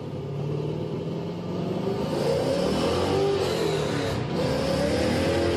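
Car engine running, building up about two seconds in and revving, its pitch rising and falling.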